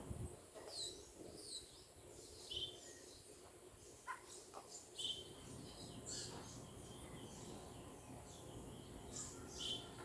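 Wild birds chirping: short, high, falling chirps scattered through, some in quick pairs, over a faint steady background hum.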